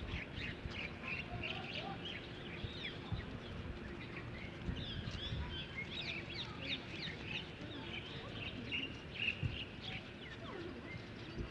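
Several birds chirping, many short high calls overlapping throughout, over low background noise.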